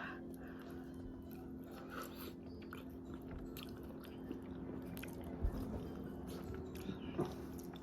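Faint chewing and biting of people eating, with scattered small clicks and smacks over a steady low hum.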